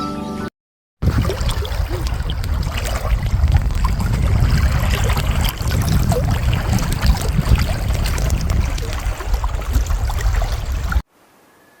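Rushing water: a loud, steady wash of noise with a deep rumble underneath and fine crackle on top. It starts after a brief silence about a second in and cuts off abruptly near the end.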